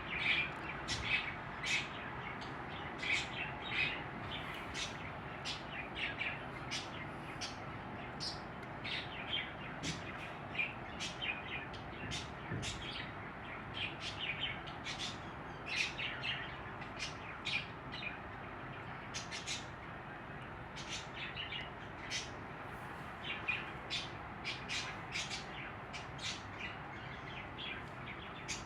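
Budgerigars chirping: many short, high chirps in quick, irregular succession.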